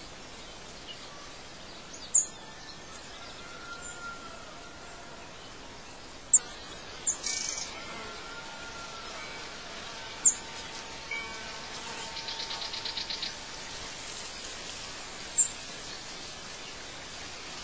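Birds chirping over a steady outdoor hiss: several sharp, high single chirps a few seconds apart, a quick trill about two-thirds of the way through, and a few soft whistled notes.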